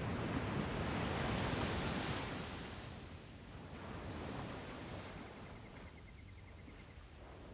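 Strong wind rushing and buffeting the microphone, swelling over the first two seconds and then easing off.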